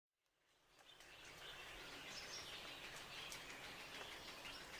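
Faint birds chirping over a steady outdoor hiss, fading in over the first second.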